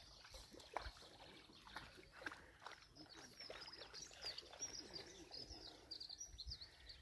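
Faint birdsong: quick high chirps and trills, busiest in the second half, with soft scattered clicks and rustles underneath.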